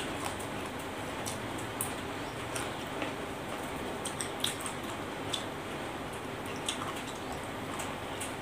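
Close-up eating sounds: crunchy chewing of raw pea eggplants, heard as scattered sharp, crisp clicks and crunches over a steady background hiss, with the sharpest click at the start.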